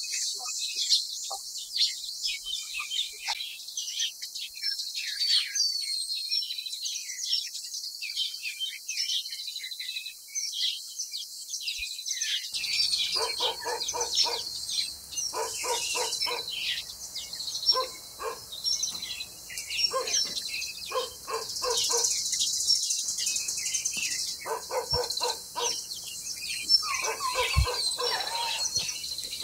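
Small birds chirping, many short high calls overlapping throughout. From a little under halfway in, a lower, repeated pulsing sound joins the chirping.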